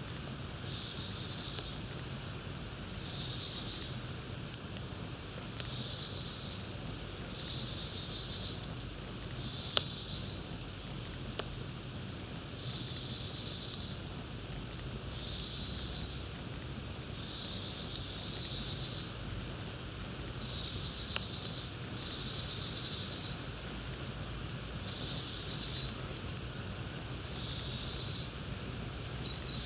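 Campfire crackling over a steady hiss, with scattered sharp pops, two of them louder. A high buzzy call, about a second long, repeats every two seconds or so behind it.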